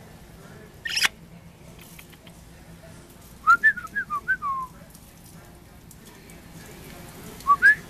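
Amazon parrot whistling: a quick run of about six short notes gliding up and down, then two rising whistle notes near the end, after a short harsh burst about a second in.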